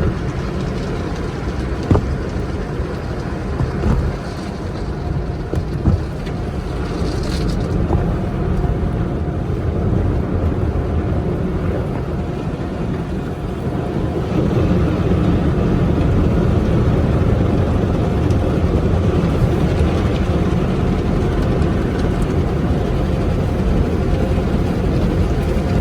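Automatic car wash running, heard from inside a car going through it: a steady low noise of water spray and machinery, with a few sharp knocks in the first six seconds, getting louder about halfway through.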